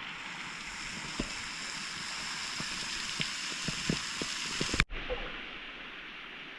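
Pot of pasta boiling on a portable camp gas burner: a steady hiss, with a string of light knocks over the middle of the stretch. The sound cuts off abruptly about five seconds in and resumes duller.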